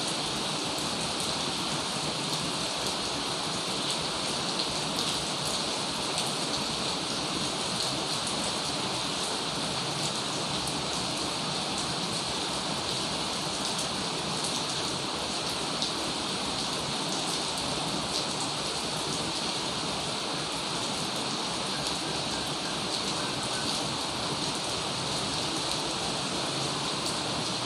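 Heavy rain falling steadily, a dense even hiss with fine drop ticks.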